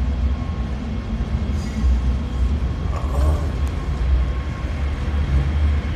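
LA Metro Purple Line subway train running, a steady low rumble heard from inside the car.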